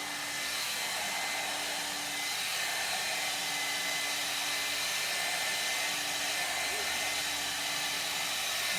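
Handheld 1800-watt ionic hair dryer blowing steadily: an even rushing of air with a thin, steady high whine.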